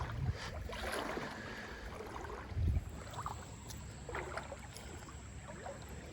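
Creek water sloshing and splashing irregularly around the legs of someone wading, with a brief low rumble on the microphone about two and a half seconds in.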